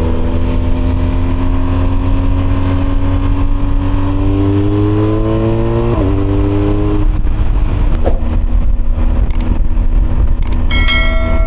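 BMW GS motorcycle engine pulling under acceleration, its pitch rising steadily, then dropping sharply about six seconds in at an upshift and running steady. A brief pitched tone sounds near the end.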